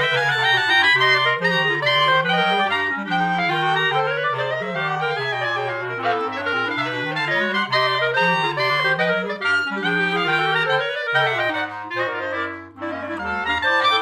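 Clarinet quartet playing a contemporary piece: several clarinets in overlapping rising and falling runs over a low moving bass line, with a brief break in the sound near the end.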